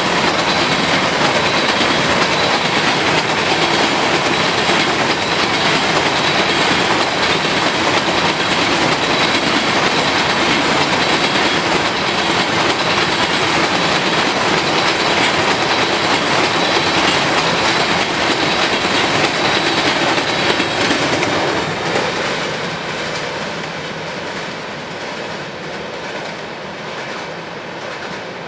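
Freight train of empty grain cars rolling past, wheels clattering on the rails. The sound is steady, then grows quieter from about twenty seconds in as the train draws away.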